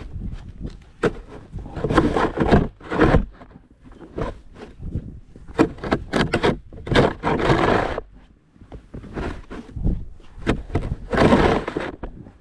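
Snow shovel scraping over the driveway in a series of irregular strokes, each about half a second to a second long, with sharp knocks in between.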